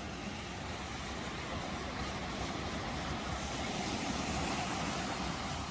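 Ocean waves: a steady wash of surf that swells gradually to a peak about four seconds in.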